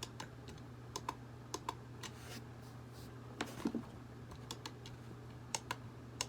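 Irregular light clicks and taps of small hard objects being handled, some in quick pairs, over a steady low hum.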